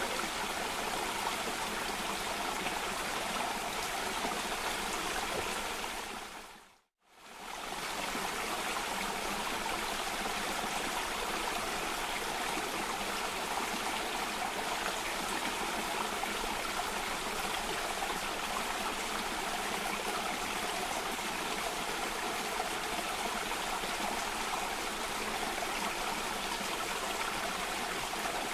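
Cascading water running steadily. About seven seconds in it fades out to silence for a moment and fades back in, the join of a looped recording.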